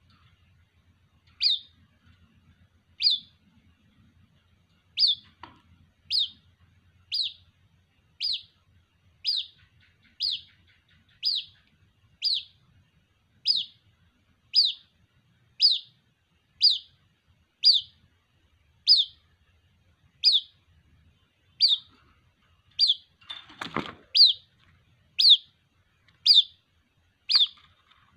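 White-breasted waterhen chick calling for its parent: short high peeps, each falling in pitch, repeated about once a second.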